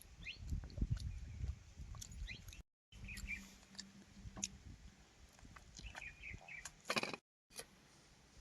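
Small birds chirping over close eating sounds: chewing and the soft squelch of rice and curry being eaten by hand. The sound drops out completely twice for a moment.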